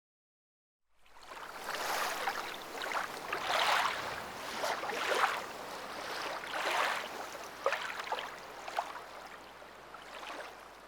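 Surf washing onto a beach, coming in after about a second of silence and swelling and ebbing in repeated surges.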